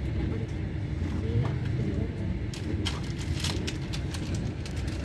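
Steady low rumble of a passenger train running, heard from inside the carriage, with a short run of sharp clicks about two and a half seconds in.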